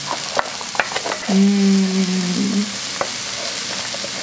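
Mushrooms, onions and minced garlic sizzling in oil in an electric skillet, while a wooden spoon stirs them with scattered clicks against the pan. About a second in, a person hums one steady note for just over a second.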